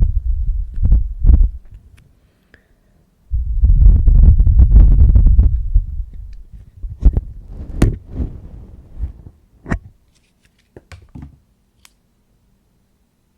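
Ear-cleaning ASMR sounds made right on the microphone: deep, muffled rubbing and rumbling in two long stretches. After that come scattered sharp clicks and taps that die away near the end.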